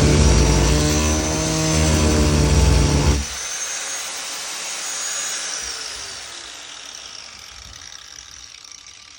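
Angle grinder running and cutting into the wet core of a fiberglass boat deck. About three seconds in it is switched off, and it winds down over the next several seconds with a falling whine as the disc coasts to a stop.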